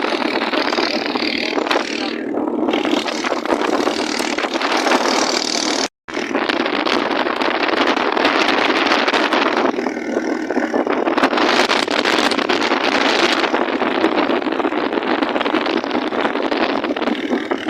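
Boat motor running steadily under a loud rushing noise. The sound cuts out abruptly for a moment about six seconds in.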